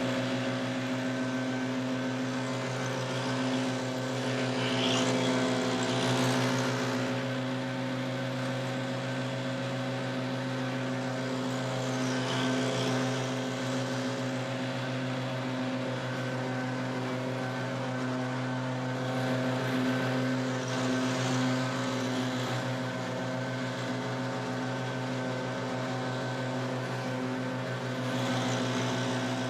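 Small gas engine of leaf-cleanup equipment running at a steady speed, with a rush of air that swells and fades every several seconds.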